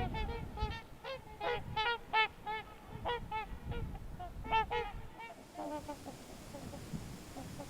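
Trumpeter swans calling: many short, horn-like honks from several birds overlapping, loudest over the first five seconds and fainter after, with a low rumble underneath.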